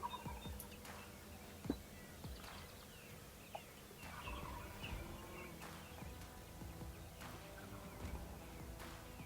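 Faint, distant wild turkey toms gobbling, once right at the start and again about four seconds in, with smaller birds chirping in between.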